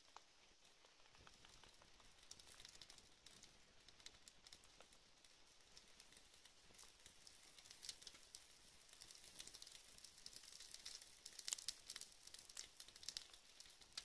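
Faint crackling of a wood campfire: irregular small pops and snaps that come thicker in the second half.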